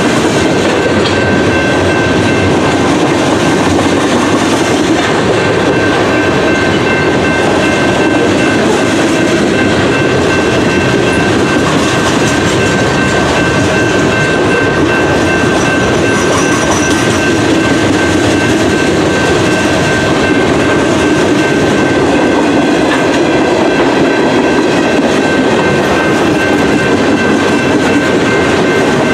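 Train cars rolling past on the rails at close range, a steady loud rumble of wheels with clickety-clack over the track. A steady high-pitched ringing from the wheels and rails runs through it.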